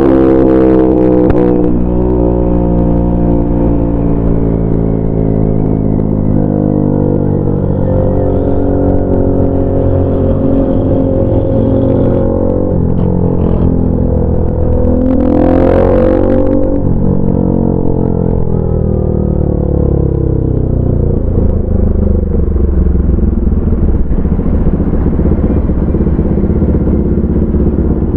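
A 200cc motorcycle engine running under way, its pitch falling as the bike slows at the start and rising and falling again with the throttle partway through.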